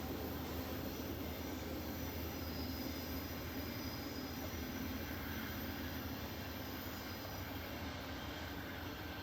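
Amtrak passenger train rolling along the rails, a steady rumble of wheels and cars that slowly fades.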